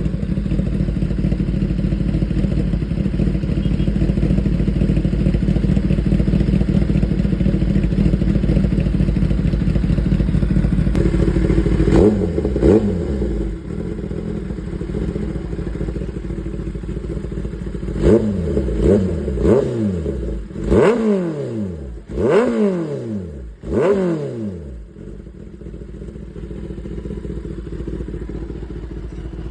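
Kawasaki Ninja inline-four sportbike with an aftermarket exhaust running steadily, then revved: one throttle blip about halfway through, then a quick run of several sharp blips, each rising and falling in pitch, before it drops back to a quieter idle.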